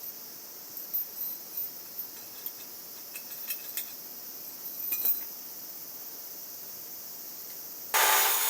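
Scattered light metallic clinks and taps over a steady high insect buzz, typical of crickets. Near the end a loud hiss starts suddenly.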